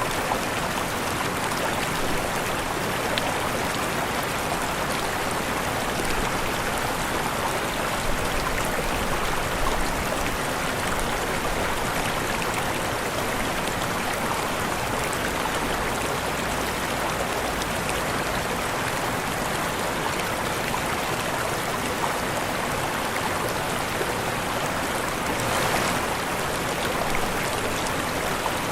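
Waterfall: falling water rushing steadily, an even hiss without breaks, with a brief louder splash near the end.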